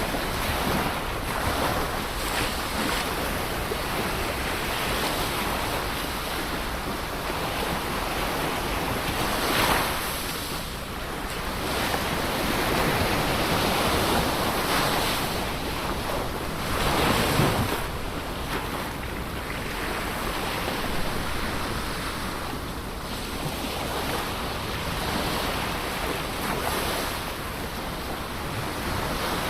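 Ocean waves washing onto the shore in a continuous surf, with breakers swelling louder about a third of the way in and again past the middle. Wind buffets the microphone throughout.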